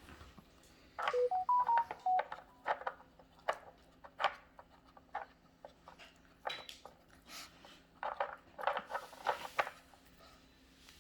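Plastic dog treat puzzle toy clicking and clattering as a dog works its pieces in search of hidden treats. About a second in there is a brief run of short, flat, stepped tones.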